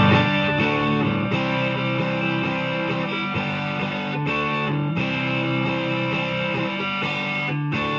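Electric guitar, an Epiphone Les Paul with Gibson humbuckers, played on the neck pickup in full humbucker mode through the classic gain channel of a Marshall amp. It rings out in held chords and notes that change about every half second to a second.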